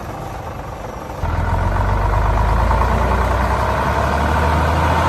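Heavy truck engine running steadily, a low hum that gets clearly louder about a second in.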